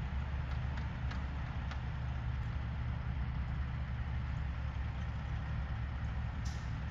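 A vehicle engine running steadily at idle, a low even hum, with a few faint clicks early on and a sharper click near the end.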